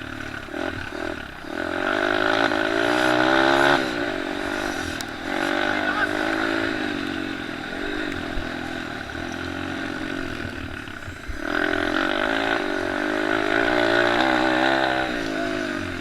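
Small motocross and pit bike engines racing round the track, their revs climbing and dropping with each gear change. They are loudest as bikes pass, from about a second and a half to four seconds in and again from about eleven to fifteen seconds in.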